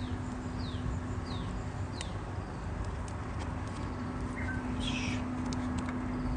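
Campfire crackling with scattered sharp pops, while a small bird gives three short falling chirps in the first two seconds. A brief rustle comes about five seconds in.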